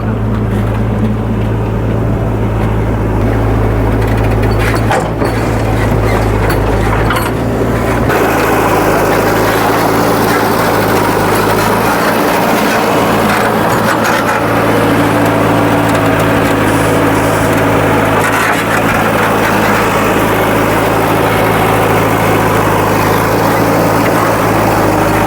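Heavy diesel engine of a backhoe loader or tractor running steadily, with a continuous low hum that drops a little after about eight seconds.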